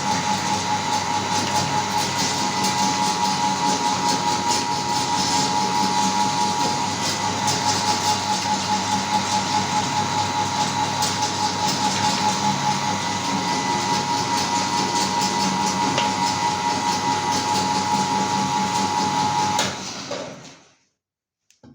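Electric meat grinder running steadily, a constant whine with a regular pulsing of about two to three beats a second. Near the end it is switched off and winds down to a stop.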